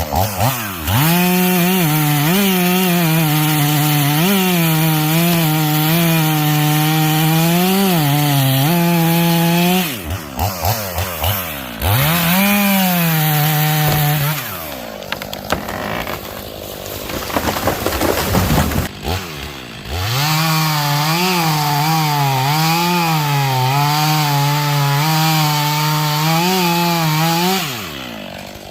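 Two-stroke chainsaw running at full throttle through wood in two long cuts, its pitch dipping and recovering as the chain bites. Between the cuts it is blipped a few times and runs at a lower speed, and it drops off near the end.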